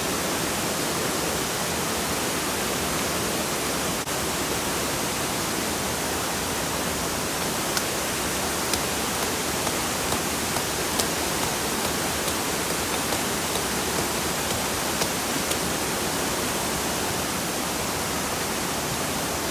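Steady, even rushing noise with a few faint small ticks scattered through it.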